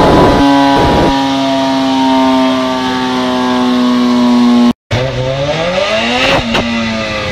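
Motorcycle engine running hard on a dynamometer: its note holds high and nearly steady, sagging slightly, then cuts out for an instant about two-thirds of the way in and climbs again as it revs up.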